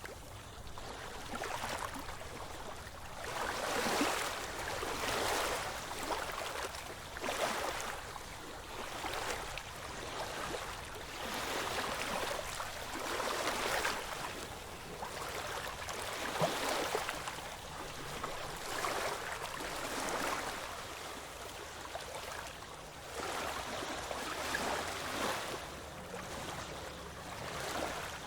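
Small ocean waves breaking and washing ashore in overlapping surges, a new swell every one to two seconds.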